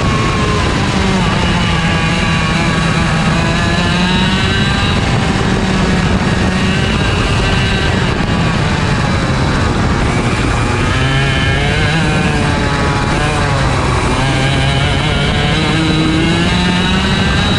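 IAME Leopard 125cc single-cylinder two-stroke kart engine at racing speed, heard onboard. The pitch climbs steadily on acceleration and drops back under braking several times: about a second in, near the middle, and again toward the end.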